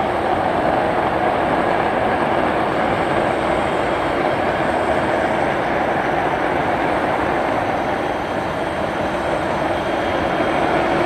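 Jet engines of a Tu-160 bomber, its four NK-32 afterburning turbofans, giving a loud, steady roar with a faint high whine above it.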